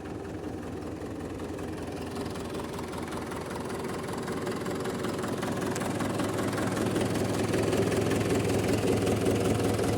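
Mahindra 475 DI tractor's four-cylinder diesel engine idling steadily, growing gradually louder. By the seller's account it runs without abnormal noise.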